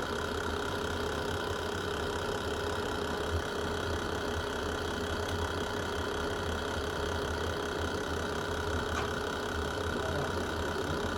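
Wood fire burning in a fireplace: a steady low rumble with a couple of brief pops.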